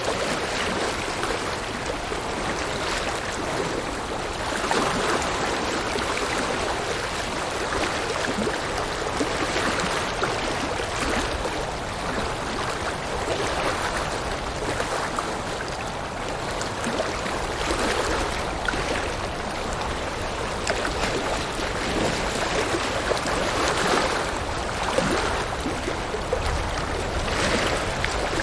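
River water rushing and splashing over rocks, a steady flowing noise with gentle swells.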